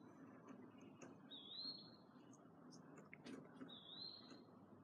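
Faint bird call: a short whistle that slides up and levels off, heard twice, with a few faint clicks between.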